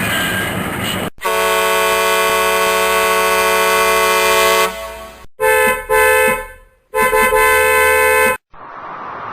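Vehicle horn sounding: one long steady blast of about three and a half seconds, then two shorter blasts.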